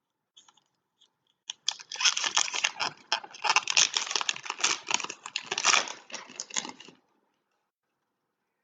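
Trading card pack wrapper being torn open and crinkled, a dense crackling run of about five seconds starting about a second and a half in, after a few faint ticks.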